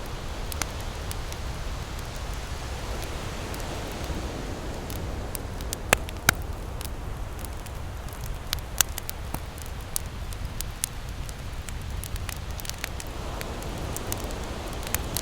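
Campfire crackling, with scattered sharp pops from the burning wood, the loudest a pair about six seconds in. Ocean waves wash in behind it as a low steady rumble that swells twice.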